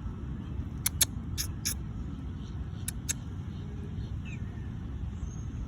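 A steady low rumble with a handful of short, sharp clicks in the first three seconds.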